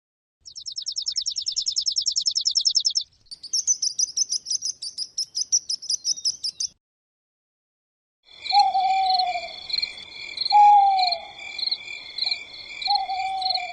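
A high-pitched bird call, a fast trill followed by a run of sharp chirps, then a pause. Then an owl hooting three times, each hoot falling slightly in pitch, over a steady chorus of night insects.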